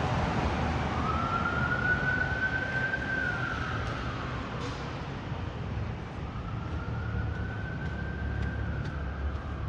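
Emergency vehicle siren sounding a slow wail, rising and falling twice, over a low rumble of vehicle engines.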